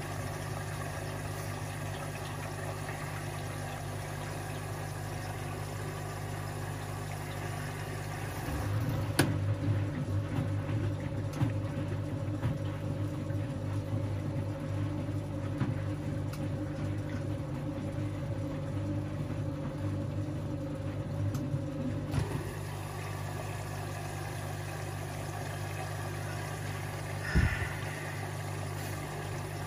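Front-loading washing machine mid-wash: a steady hum, then the drum motor turns the drum for about thirteen seconds with a wavering whine and soft knocks from the tumbling load, stopping abruptly. A single thud follows near the end.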